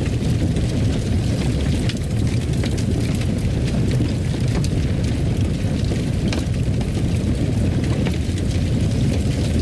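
Wood fire crackling: a steady low rumble of the flames with irregular sharp pops and crackles.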